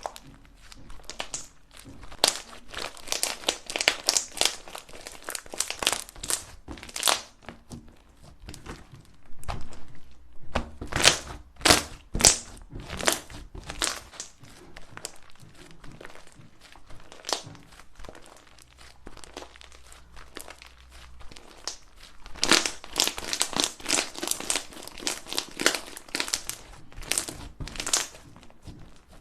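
Crunchy slime being squeezed and pressed by hand: dense runs of crisp crackling and popping, coming in several bursts with softer squishing between.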